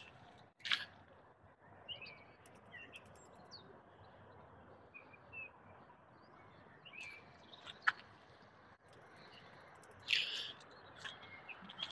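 Birds chirping faintly with short high calls, and a few louder crunches of footsteps on gravel.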